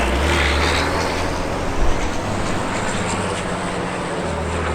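Tatra Dakar race truck's diesel engine running hard under throttle, with a strong low drone and a whine that climbs in pitch over the first second.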